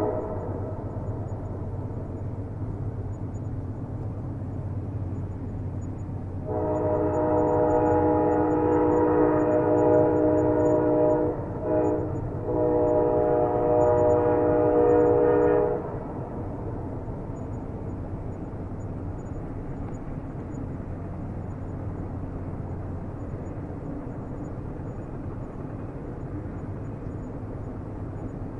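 Train horn sounding two long blasts with a brief break between, starting about six seconds in, over the steady low rumble of a train running. The tail of an earlier horn blast fades out at the very start.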